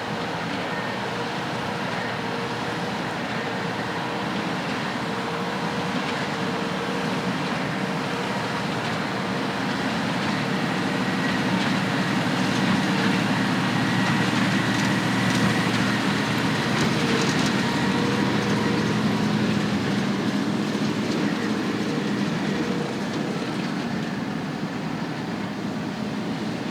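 Heavy farm machinery running steadily, growing louder toward the middle and easing off near the end.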